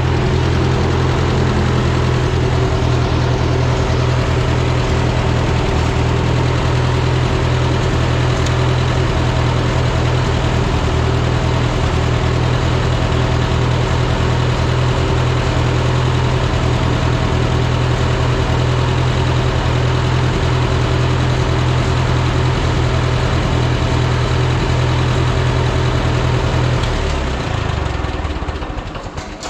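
1963 Massey Ferguson 35 tractor's gasoline four-cylinder engine running steadily while the freshly reassembled hydraulic pump and three-point lift are tested. It is shut off about 27 seconds in and runs down.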